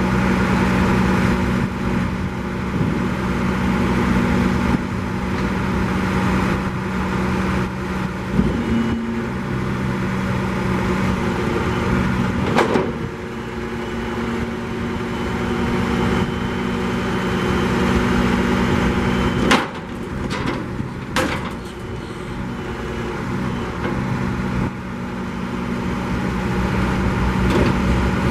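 2011 Freightliner M2 grapple truck's diesel engine running steadily, with a few sharp knocks about 13, 20 and 21 seconds in.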